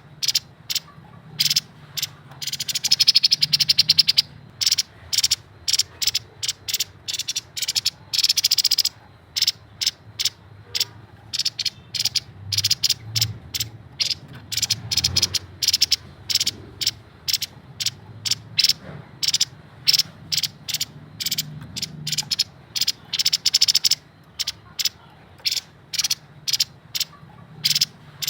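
Grey-headed babbler calling: a long series of short, sharp, high notes, several a second, broken by fast rattling runs about three seconds and eight seconds in.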